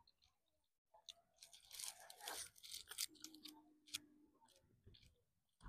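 Biting into and chewing a crispy fried chicken burger up close: a crackly crunch about a second and a half in, then quieter chewing and small mouth clicks.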